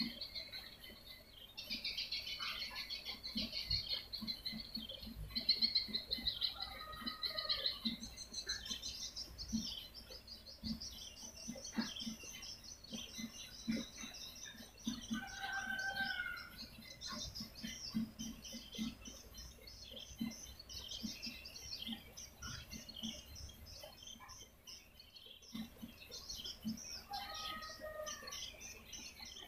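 Swiftlet twittering used as a lure call: a dense, continuous chatter of short high chirps, with a few lower call notes in the middle and near the end and soft ticks underneath.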